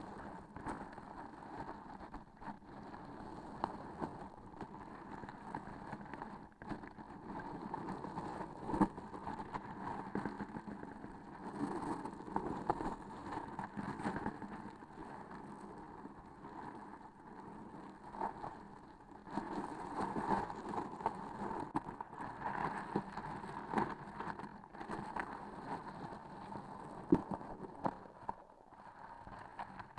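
Sticky transparent objects being squeezed and handled right at the microphone. The texture noise swells and fades throughout, with a couple of sharp clicks, one about nine seconds in and one near the end.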